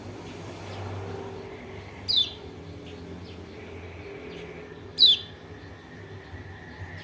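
Kecial kuning (white-eye) giving two short, high calls that fall sharply in pitch, about three seconds apart. A steady low rumble of background noise runs underneath.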